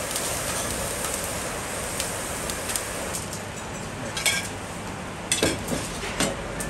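Baby octopus sizzling in a steel pan over a charcoal grill, a steady frying hiss. Several sharp clinks of metal pans and utensils come in the second half.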